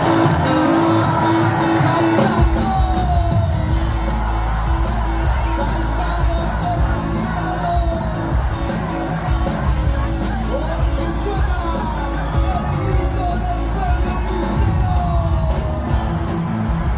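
Live cuarteto band playing loud through a PA with a steady beat, the heavy bass coming in about two seconds in, and crowd yells and whoops over the music.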